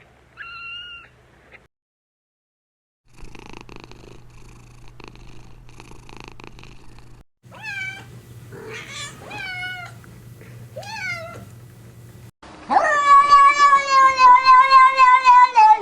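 Domestic cats in a string of short clips: one brief meow, a few seconds of rough pulsing purring, four short meows one after another, then a loud, long wavering meow near the end.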